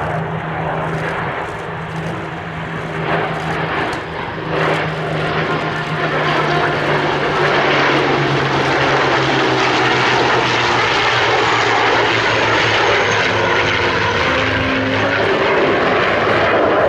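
Zivko Edge 540 aerobatic plane's 350-horsepower engine and three-bladed propeller running during a display. The engine note slides slowly lower while the sound grows louder about six seconds in.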